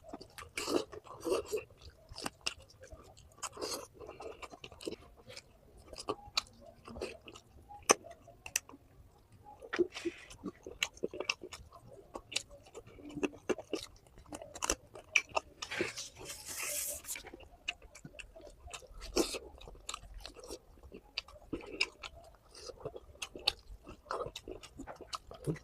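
Close-miked chewing and biting of a mouthful of rice and meat curry: irregular wet clicks and crunches, with one longer hiss about two thirds of the way through.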